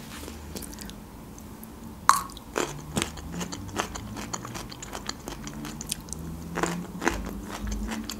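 Close-miked mouth sounds of chewing a pickled gherkin, with crisp crunches scattered through and a few sharper bites.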